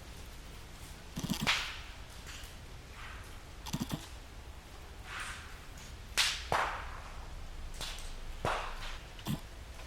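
A series of about eight sharp swishing strikes at irregular intervals of roughly a second: a blade chopping by hand, cutting wood or brush.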